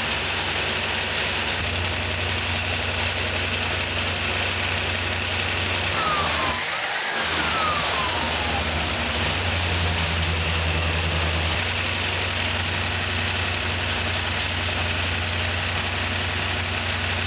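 Rebuilt 1957 Chevrolet 283 small-block V8, with a Power Pack four-barrel carburettor and dual exhaust, idling steadily on its first run after the rebuild. Its low note breaks briefly about seven seconds in.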